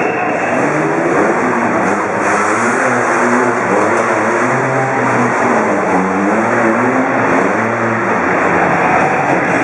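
Off-road truck engine running hard, revving up and down over and over as the throttle is worked.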